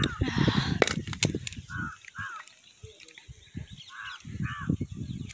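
A bird calling in pairs of short calls, a pair about every two seconds. Underneath is close-up rustling and chewing noise.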